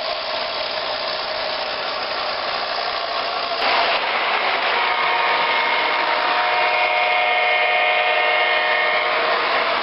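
A train running past with a loud steady rolling noise that jumps louder a little over three seconds in. From about five seconds in, several steady high tones sound together for about four seconds.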